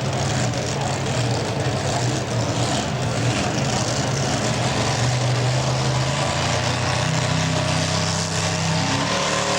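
Super modified four-wheel-drive pulling truck's engine running hard at high revs, a continuous loud roar with its pitch climbing slightly near the end.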